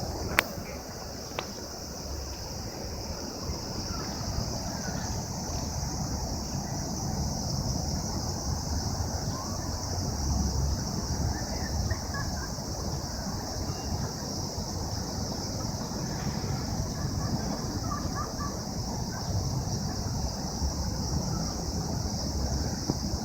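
Wind rumbling on the microphone, over a steady high-pitched drone of singing insects. A sharp click comes about half a second in.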